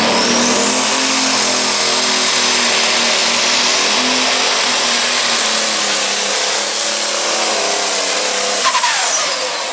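Light pro stock pulling tractor's turbocharged diesel at full throttle, loud and steady, with a high turbo whistle that climbs in the first second and then holds. About nine seconds in the throttle comes off and the whistle falls away.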